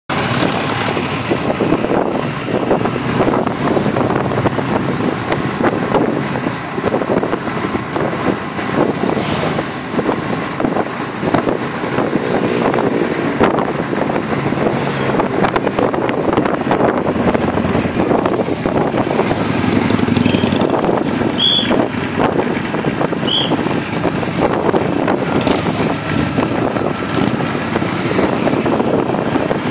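Harley-Davidson motorcycles running loud and continuously, a dense wall of engine and exhaust noise that swells and dips, with two brief high chirps a little past the middle.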